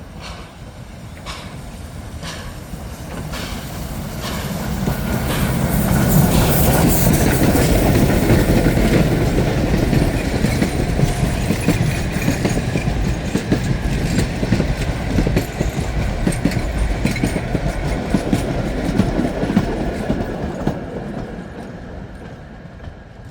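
A heritage train passing close by, its wheels clicking over the rail joints: it grows louder over the first several seconds, runs past at its loudest, then slowly fades away.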